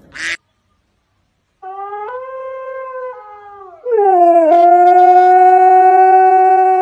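Husky howling: a shorter, quieter howl from about two seconds in, then a long, loud, steady howl from about four seconds on.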